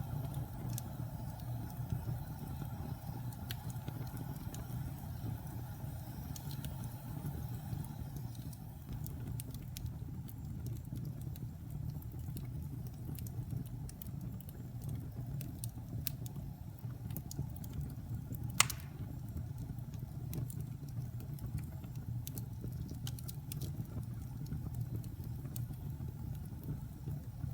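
Wood fire burning in a fireplace: a steady low rumble of flames with scattered small crackles, and one louder pop about two-thirds of the way through.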